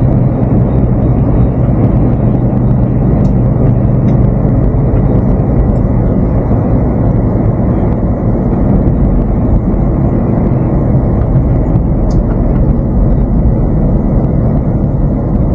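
Heavy goods lorry driving at a steady speed, heard from inside the cab: a steady diesel engine hum with road and tyre noise.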